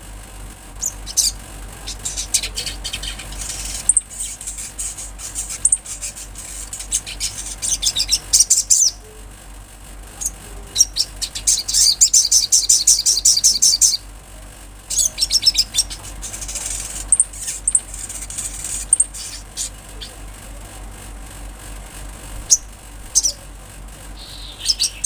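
Sunbird singing in bouts of very high, rapid chips and trills, with one long fast trill about halfway through.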